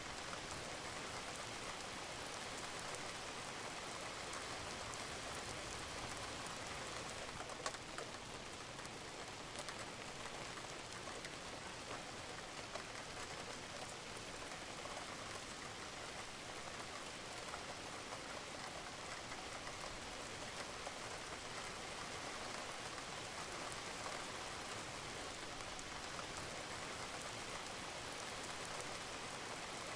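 Steady rain falling on a roof, a constant even patter with occasional sharper drop ticks, one standing out about seven and a half seconds in.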